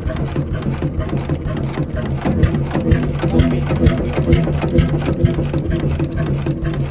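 Fairbanks Morse YHB 25 hp two-stroke diesel engine running, a steady rhythmic beat with sharp mechanical clatter and knocks.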